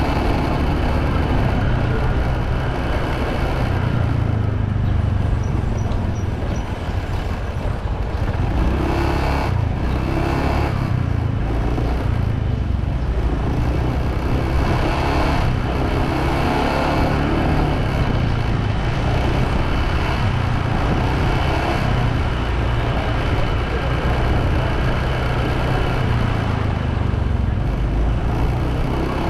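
Motorbike riding along a road: its engine running and road noise, a steady, even rumble.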